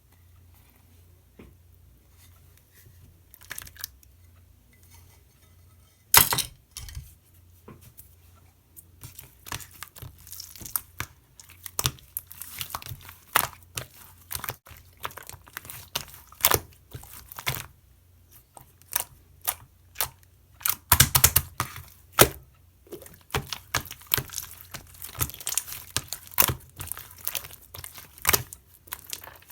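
Slime being squished and pressed by hand, giving sharp pops and crackles; only a few faint clicks at first, then quick, dense runs of pops from about six seconds in.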